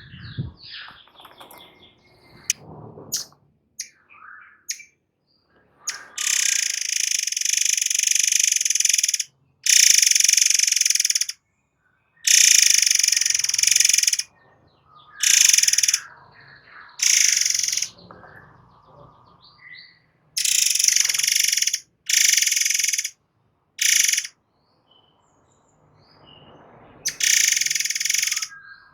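A murai air singing in the rapid 'nembak' style: repeated long, dense, high-pitched bursts lasting one to three seconds each, separated by short gaps with a few thin, softer calls.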